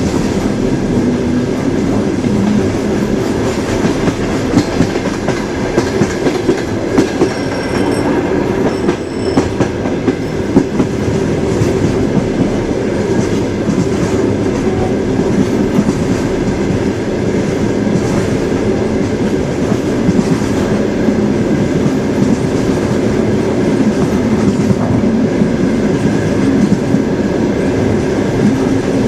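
Train running along the track: a steady rumble of the wheels on the rails, with a run of sharper clickety-clack knocks from the rail joints a few seconds in.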